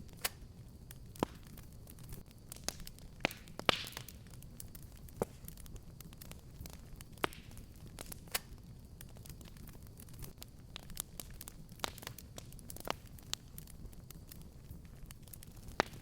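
Wood fire burning in a fireplace, crackling with irregular sharp pops over a low steady rumble of flames, and a brief hiss about four seconds in.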